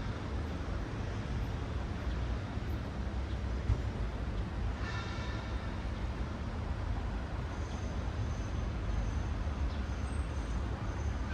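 Urban road traffic: cars passing with a steady rumble of tyres and engines, and a brief high-pitched tone about five seconds in.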